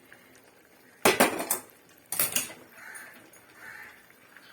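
Metal spoon clattering and scraping against a cooking pot, in two short bursts about a second apart, followed by fainter scraping while the gravy is stirred.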